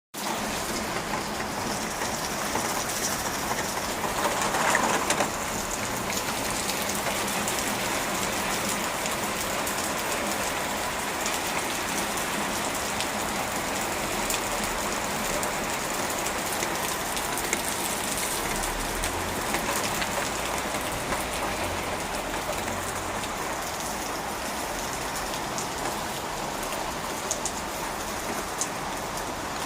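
Heavy rain falling steadily in a dense, even hiss, briefly louder about four to five seconds in, with faint low rumbles in the middle.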